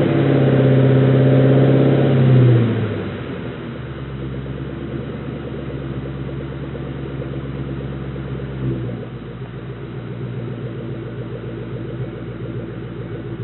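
1997 Ford Mustang Cobra's 4.6-litre V8 held at raised revs, dropping back to idle about three seconds in, then idling steadily.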